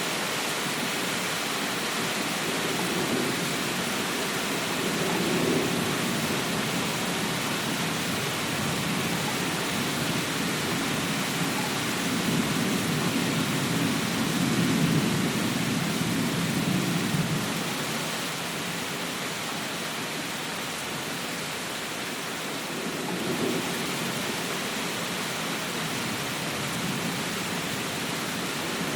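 Steady heavy rain, with low rumbles of thunder that swell and fade a few times.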